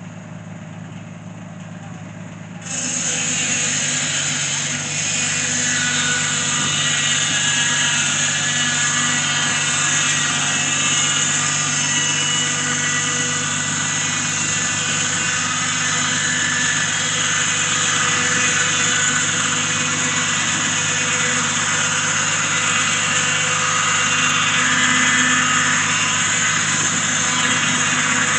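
An engine running steadily, then about three seconds in a much louder, steady machine noise starts suddenly and keeps on, with the engine hum still under it.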